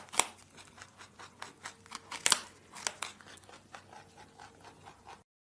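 Rabbit making small crisp crunching and rustling sounds, an irregular run of sharp clicks several a second that cuts off suddenly about five seconds in.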